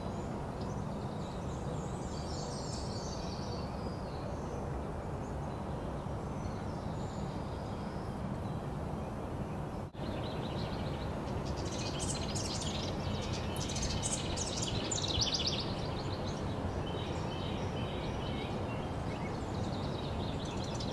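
Wren song: short, fast, high-pitched trilled phrases, loudest in a long burst about halfway through, with repeated notes near the end. Underneath runs a steady low outdoor background rumble.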